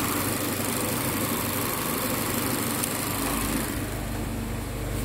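Mazda 2 Skyactiv's petrol four-cylinder engine idling steadily.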